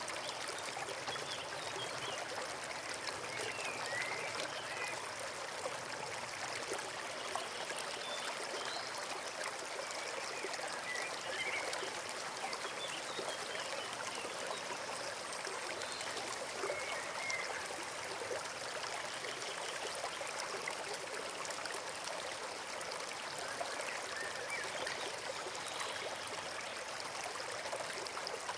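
A forest stream flowing and trickling steadily, with faint short high chirps now and then.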